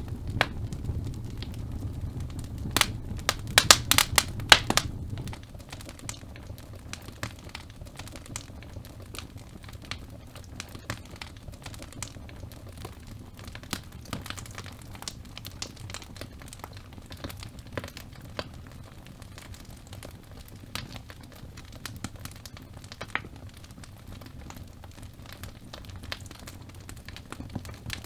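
Logs burning in a fireplace, crackling with scattered sharp pops, and a quick run of loud pops about four seconds in. The low rumble of the flames eases after that, leaving a lighter, steady crackle.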